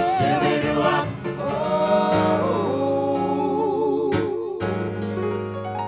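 A pop vocal ensemble with band accompaniment holds the closing note of a song, the lead voice sustaining it with vibrato over a held chord, until the music shifts into the next song near the end.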